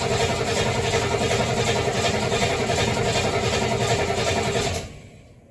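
1973 Ford Mustang engine being cranked over by its starter motor in an even, rhythmic chug without catching. It stops suddenly near the end: the engine cranks well but will not start, and the owner is unsure whether the cause is ignition, fuel, or flooding.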